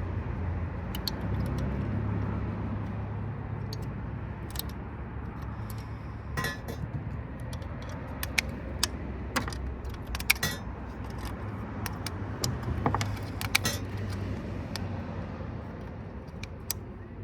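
Scattered sharp metallic clicks and clinks of hand tools and copper-bodied parts as components are taken off a power-supply circuit board. Under them runs a steady low hum.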